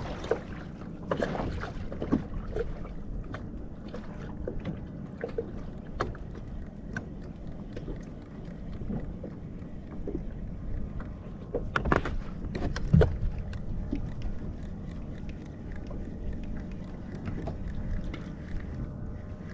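Water sloshing against a fishing kayak's hull, with scattered knocks and clicks. The loudest two come about twelve and thirteen seconds in.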